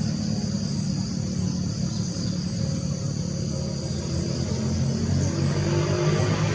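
Steady chorus of insects such as crickets or cicadas, over a low steady hum.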